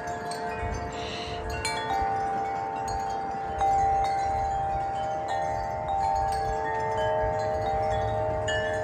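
Wind chimes, tuned to a whole-tone scale, ringing in gusty wind: several long ringing notes overlap, with fresh strikes every second or two. Underneath there is a low rumble of wind.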